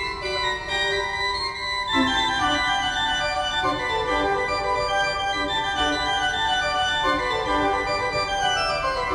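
Background music played on an organ-like keyboard, sustained notes moving in a slow melodic line.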